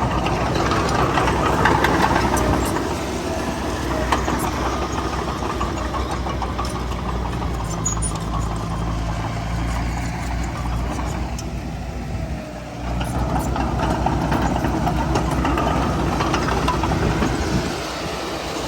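Heavy diesel engine of earthmoving machinery running steadily, dropping briefly about twelve seconds in and picking up again.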